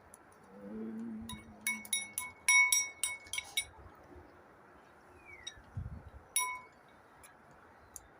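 A quick run of bright, ringing clinks, all on the same pitch, from a small chime-like or glass-like object, then one more clink about six seconds in.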